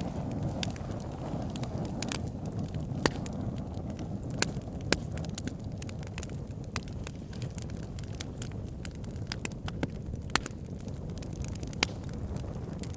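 Wood fire crackling in a fireplace: a steady low rumble of flames with irregular sharp pops and snaps, a handful of them louder.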